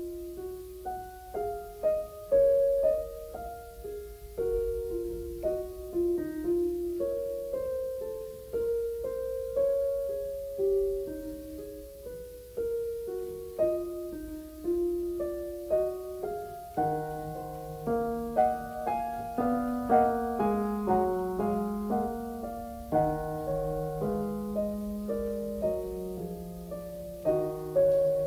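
Background piano music: a slow melody of single struck notes, joined by lower bass notes about two-thirds of the way through.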